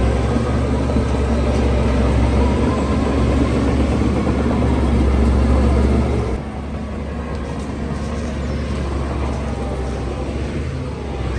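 Heavy diesel construction machinery running with a steady low drone; it drops noticeably in level about six seconds in.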